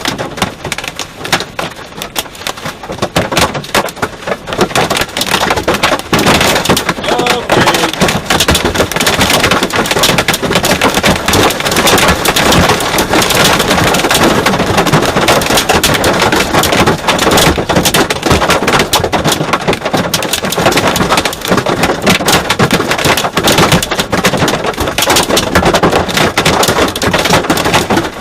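Large hailstones pelting a car in a dense, steady clatter of impacts, heavier from about six seconds in.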